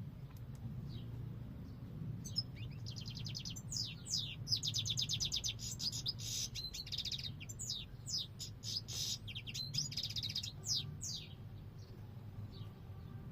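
European goldfinch singing: a fast, twittering run of trills and sharp falling notes that starts about two seconds in and stops a couple of seconds before the end. A steady low hum runs underneath.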